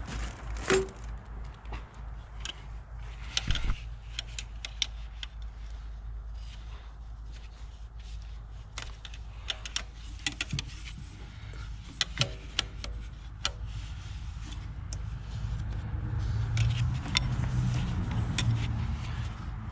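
Metal hand tools and engine parts clinking and tapping against each other in irregular, scattered clicks, as parts are handled and tools worked in a cramped engine bay, over a steady low hum.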